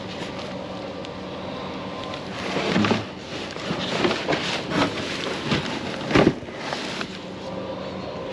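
Scrap metal being handled and dropped: a run of clanks and knocks over about four seconds, the loudest about six seconds in, over a steady low idling hum.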